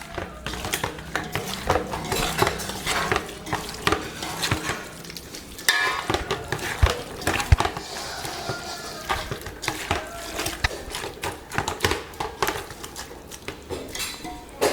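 Chicken biryani marinade being mixed in a metal pot, with a busy run of irregular clinks and scrapes of utensils against the vessel.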